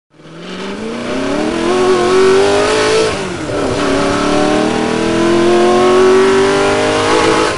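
Car engine accelerating hard: its pitch climbs steadily, drops sharply about three seconds in as it shifts up a gear, then climbs again.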